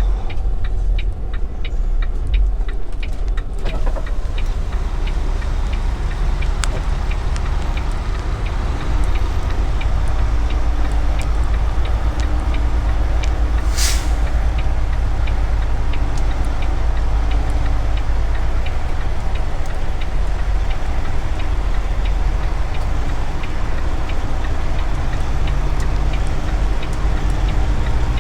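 Semi truck's diesel engine running slowly as the truck is manoeuvred into a parking space, heard from inside the cab, with a short sharp hiss of air about fourteen seconds in.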